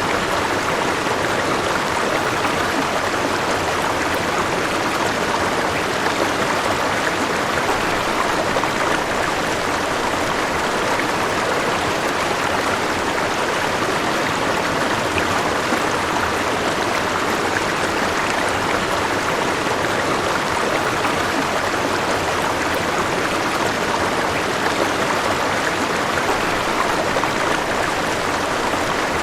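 River water flowing over rocks: a steady, even rushing and babbling with no change.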